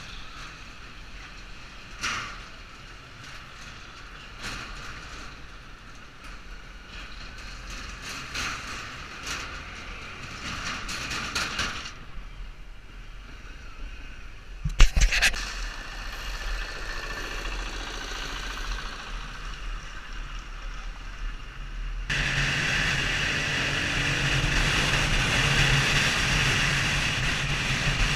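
Small motorcycle running while being ridden, engine mixed with wind and road noise and scattered knocks. The sound changes abruptly twice, and in the last few seconds the engine is louder and steadier.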